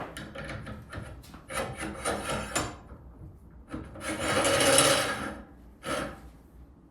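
A 3/4-inch steel shaft being worked into the pillow block bearings of a buffing attachment, metal scraping and rubbing in a run of short strokes, with one longer, louder scrape about four seconds in.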